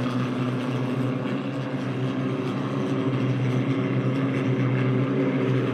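Boat engine from a Mitsubishi L300 motor running steadily under load, a continuous drone holding an even pitch.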